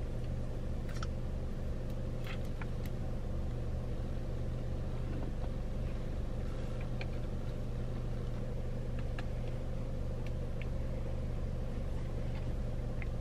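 Steady low hum of a car's engine idling, heard inside the cabin, with a few faint scattered clicks of a plastic package and a phone being handled.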